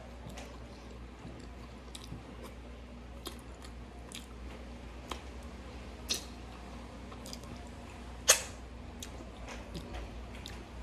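Eating by hand: chewing with wet mouth clicks and lip smacks as fingers are licked clean, one click much louder about eight seconds in.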